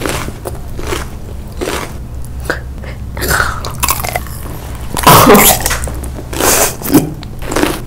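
Close-up eating sounds of biting into and chewing a large red gummy candy, in several loud bursts, the loudest about five seconds in.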